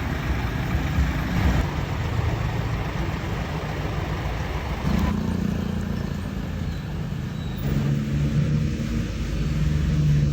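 Diesel engine of a Scania K450CB bus running. The sound changes abruptly about halfway through and again near the end.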